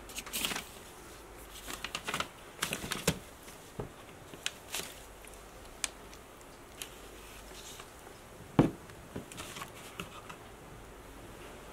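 Scattered light clicks, taps and rustles of handling, with one louder sharp knock about two-thirds of the way through.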